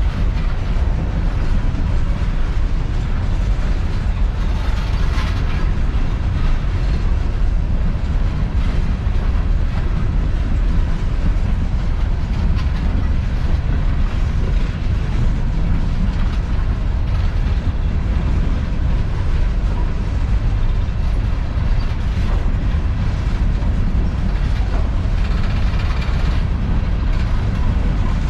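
A freight train of empty coal hopper cars rolling steadily past, with the constant sound of steel wheels on rail.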